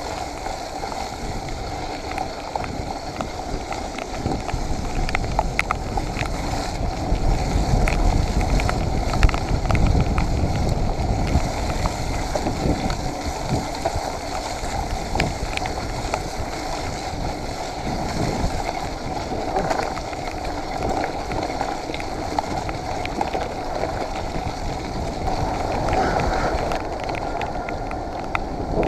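Mountain bike riding over a wet, muddy trail: wind noise on the microphone over the hiss and rumble of tyres on wet ground, with frequent small knocks and rattles from the bike. The rumble is heaviest for a few seconds near the middle.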